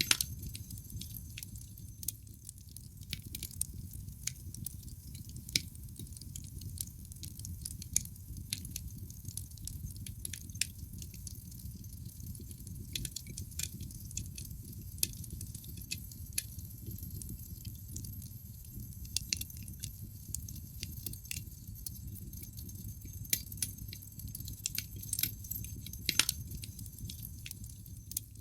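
Wood fire crackling in a fireplace: irregular sharp snaps and pops, a few louder than the rest, over a low steady rush of burning logs.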